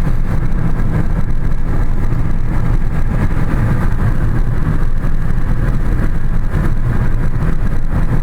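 Steady engine and road noise inside the cabin of a moving car: a loud, even low rumble.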